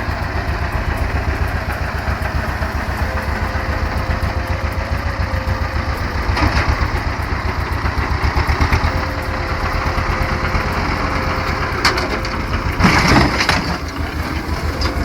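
Tractor engine running steadily with a rapid low pulse, and a brief clatter near the end.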